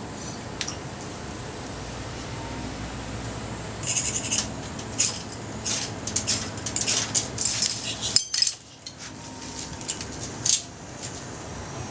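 A run of short, sharp metallic scrapes and clinks, irregular and repeating from about four seconds in.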